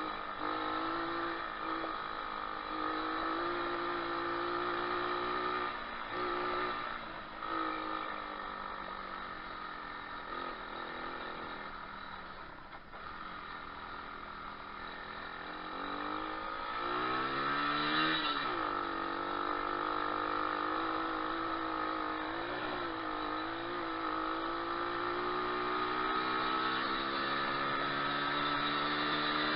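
Moto4 125cc pit bike's single-cylinder four-stroke engine running while riding, its pitch following the throttle. It holds steady at first, drops to a lower pace about halfway, rises quickly with a short blip of revs about two-thirds in, then runs steady again with the revs slowly climbing.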